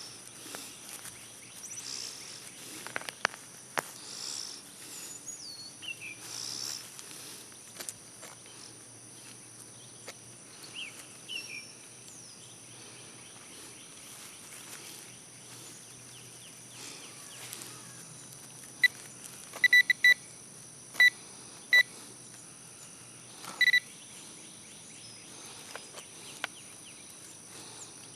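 Metal detector beeping on a target: a run of short, sharp, high beeps a little after the middle, with a longer beep near the end. Before that, scattered clicks and scrapes of digging, with birds chirping over a steady high insect drone.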